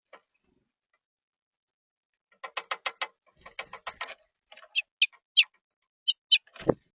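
Birds at a backyard feeder: a run of quick sharp taps, about five a second, then several short, high chip calls that drop in pitch, and a single thump near the end.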